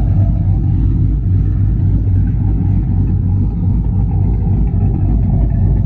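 Pickup truck engine idling steadily, a deep, even exhaust rumble.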